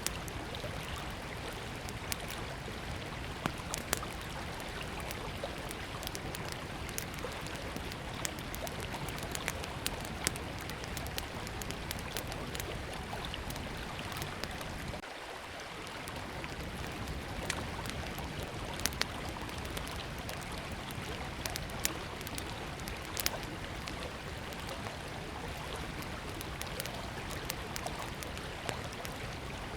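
Small wood fire crackling, with irregular sharp pops and snaps, over the steady rush of river water.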